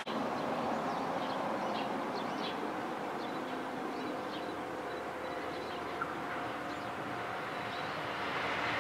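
Small birds chirping now and then over steady outdoor noise, while a JR HB-E300 series diesel-hybrid railcar approaches, its sound growing louder in the last second.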